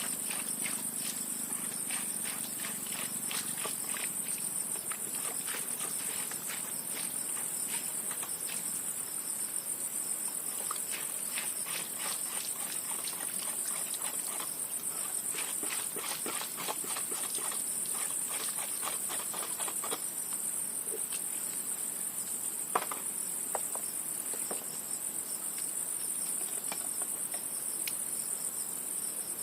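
Steady high-pitched chorus of insects, shrilling continuously. Scattered light ticks and clicks run through it, with one sharper click about two-thirds of the way through.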